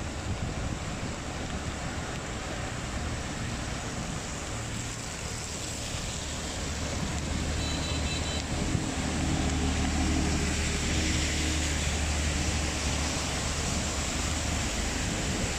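Steady hiss of heavy rain and wet road noise, with a vehicle engine's low hum swelling in the second half. A brief high-pitched tone sounds about eight seconds in.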